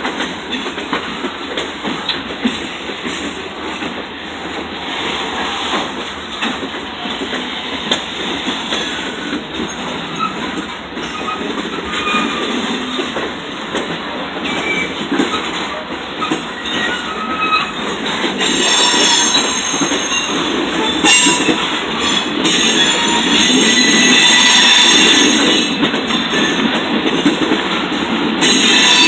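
Freight train cars rolling past with a steady clatter of wheels on the rails. High-pitched wheel squeal sets in about two-thirds of the way through, and the sound grows louder toward the end.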